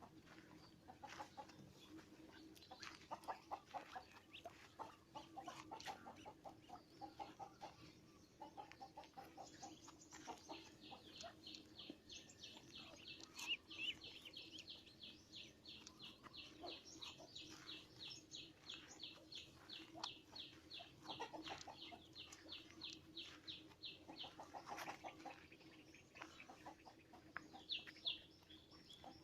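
Birds calling: scattered low clucking notes, and a fast, even run of high chirps at about four a second that starts about ten seconds in and stops a few seconds before the end, all over a faint steady hum.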